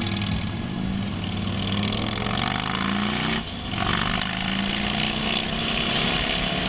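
Motorcycle engine running on the road under a steady rushing noise. About three and a half seconds in, the engine note drops briefly, then climbs again.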